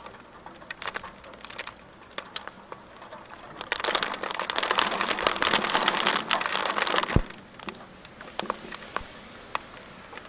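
Rain, with individual drops ticking and pattering. In the middle, a dense rush of splashing, much louder, lasts about three and a half seconds and stops suddenly on a sharp knock.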